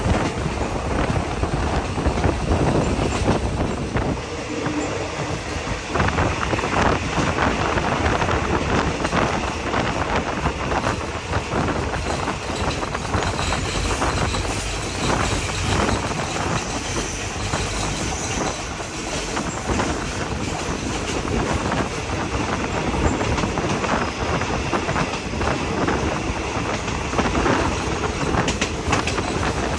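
Passenger train running along metre-gauge track: a steady rumble of wheels on rail with a dense run of clacks as the wheels pass over rail joints.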